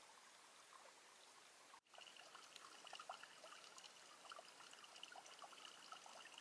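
Faint trickling water with small scattered drips, near silence, broken by a brief dropout about two seconds in; after it a faint steady high tone sounds alongside.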